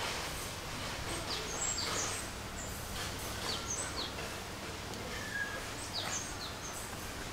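Small birds chirping in the trees, a string of short, high, downward-slurred calls every second or so, over a steady outdoor hiss.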